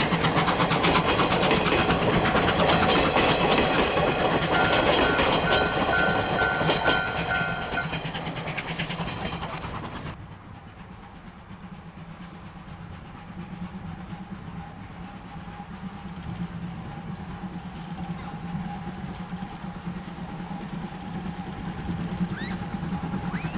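The SL Moka train, hauled by steam locomotive C12 66, passing close by with its wheels clattering over the rail joints. It is loud for about ten seconds, then cuts off abruptly to a much quieter steady hum.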